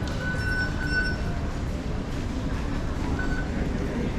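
Singapore MRT Circle Line train running with a steady rumble, with a thin high wheel squeal near the start and again briefly just past three seconds.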